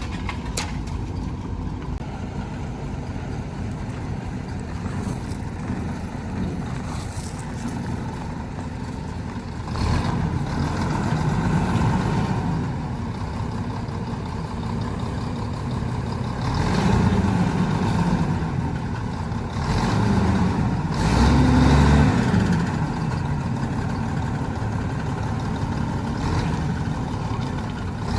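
Heavy diesel engine running steadily, revving up in several louder surges about a third of the way in, past halfway, and around three quarters of the way through.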